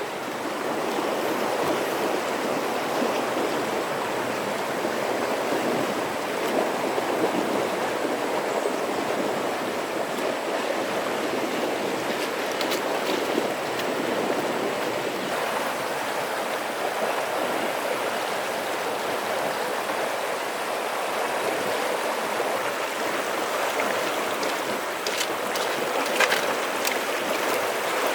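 Steady rushing of flowing water, with a few sharp clicks near the end.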